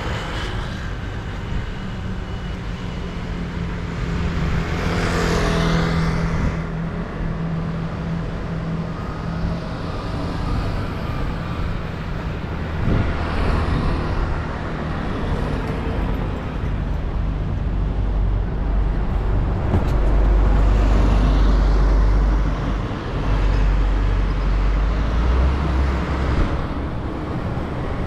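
Road traffic: motor vehicles running and passing close by over a steady engine rumble, with several cars swelling past and the heaviest, deepest rumble of a large vehicle going by in the last third.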